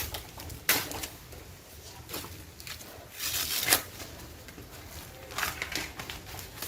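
Corn husks being pulled and torn off ears of corn by hand: irregular rustling and tearing in several short bursts, the loudest about three and a half seconds in.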